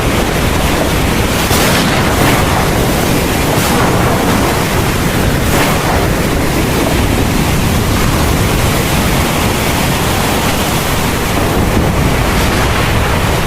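Heavy thunderstorm rain falling steadily, a dense even hiss over a deep low rumble.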